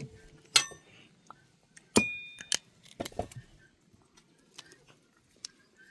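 A few sharp clinks and knocks of dishes or utensils being handled. The clearest, about half a second and two seconds in, ring briefly; softer knocks and faint ticks follow.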